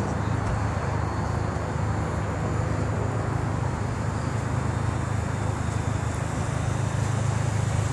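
Steady low rumble of a car engine idling, with even background noise over it.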